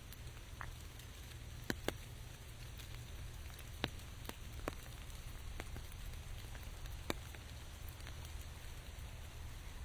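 Rain falling as a steady hiss, with irregular sharp taps of single large drops landing close by and a steady low rumble underneath.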